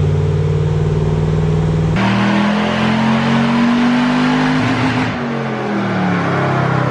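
Supercharged Toyota truck engine on a chassis dyno, running steadily, then opened to full throttle about two seconds in and revving up hard. Near the end of the pull the throttle closes and the revs wind back down.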